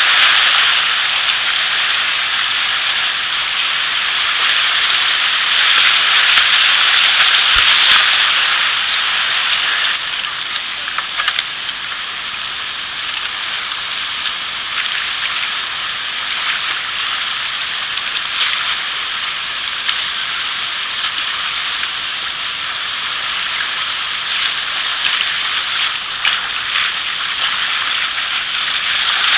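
River water rushing and splashing around a kayak on a whitewater river, louder through roughly the first ten seconds, with a few short splashes.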